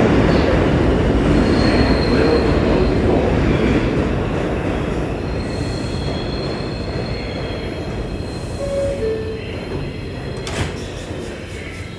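R142 subway train running through the station, its steel wheels rumbling and squealing on the rails as the sound slowly grows quieter. Two short descending tones sound about three-quarters of the way through, and a few clicks near the end.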